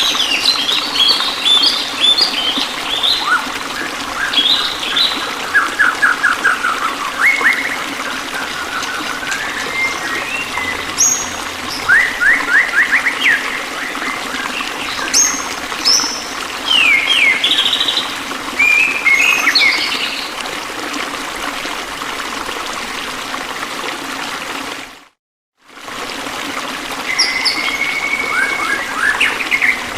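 Several songbirds chirping and trilling in quick, varied phrases over a steady trickle of running water. The sound cuts out briefly about 25 seconds in.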